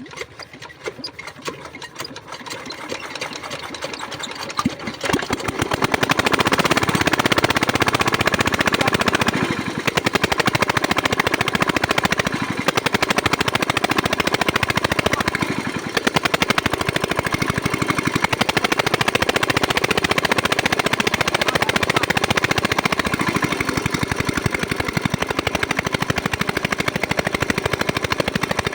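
5 hp single-cylinder diesel pump engine running with a rapid, even knocking beat. It speeds up and grows louder over the first five or six seconds, then runs steady and loud.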